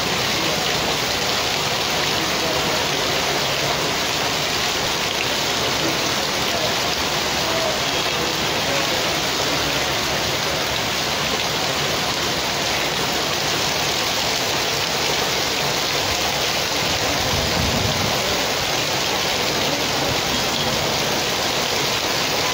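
Heavy rain pouring steadily onto a paved street and parked cars, a dense, even hiss. A brief low rumble comes in about three quarters of the way through.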